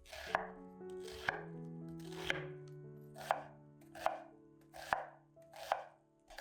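Kitchen knife chopping on a cutting board, seven slow, even strokes about a second apart, over soft background music.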